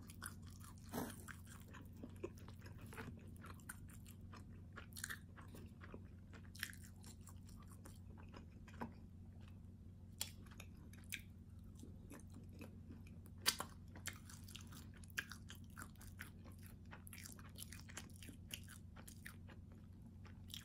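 Close-up eating sounds of a calzone: biting and chewing with irregular crunches of the crisp, flaky crust, one sharper crunch a little past the middle. A steady low hum sits underneath.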